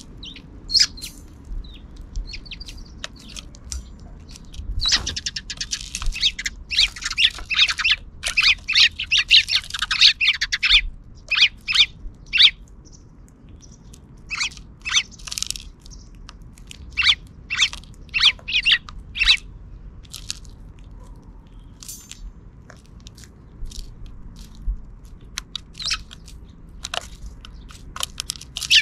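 A flock of sparrows chirping, with many short high calls coming in two busy flurries and sparser chirps between and after.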